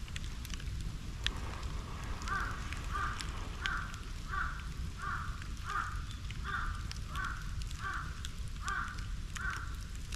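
A crow cawing about eleven times in an even run, roughly one and a half caws a second, over the crackle and pops of a wood and bamboo bonfire.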